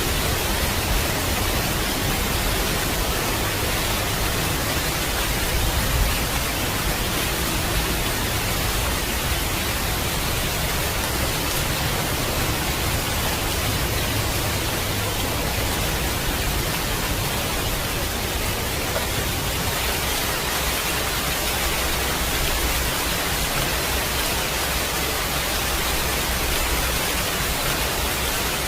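Steady rain falling as an even hiss, with a low rumble of thunder underneath that fades about two-thirds of the way through.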